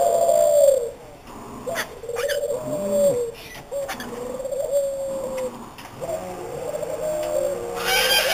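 Doves cooing: a run of low calls, each falling slightly in pitch, one after another. A few sharp clicks sound between them, and a short noisy burst comes near the end.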